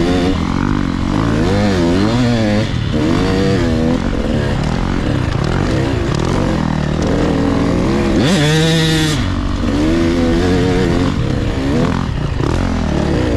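Two-stroke 85 cc dirt bike engine of a Husqvarna TC 85 riding on trail, its revs rising and falling over and over with the throttle. About eight seconds in it revs up sharply and briefly runs louder and harsher.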